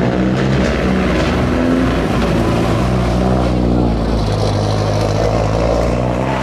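Racing car engine running loud, its pitch rising and falling as it revs.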